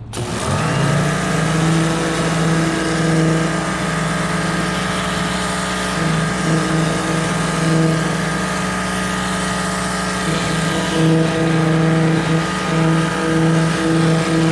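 Electric pressure washer running and spraying: a steady motor-pump hum with the hiss of the water jet.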